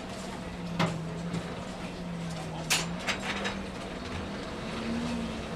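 Two sharp knocks of a hammer on hot iron at the anvil, about two seconds apart, over a steady low hum.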